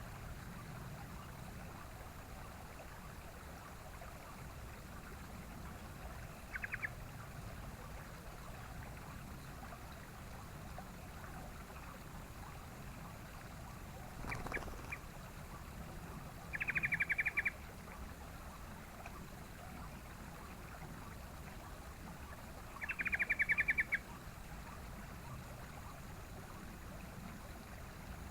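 Sooty-headed bulbul (trucukan) giving short rattling calls of rapid notes: a brief one, then two longer rattles of about a second each, over a steady background hiss.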